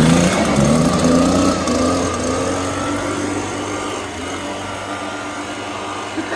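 Small, high-revving engine accelerating: its pitch climbs over the first couple of seconds, then holds steady while the sound slowly fades.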